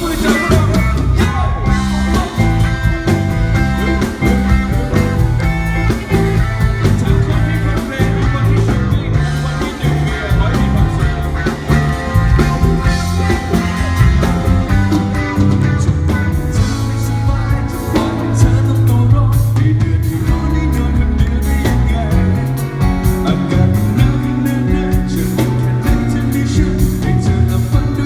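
Live band playing an amplified rock song with a singer, over heavy bass and a steady drum beat.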